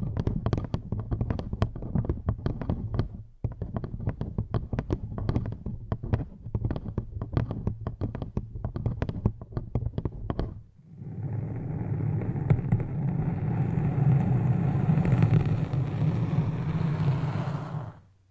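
Close-miked ASMR trigger sounds: dense, rapid clicking and tapping for about ten seconds, then a steady low rumbling rustle, like brushing or rubbing on the microphone, that stops just before the end.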